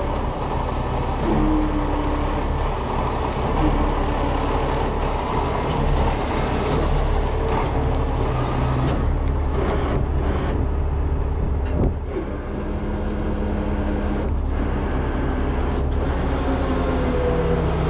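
Heavy truck diesel engine running steadily, with whining tones that shift in pitch and a few clanks, one sharp one about twelve seconds in.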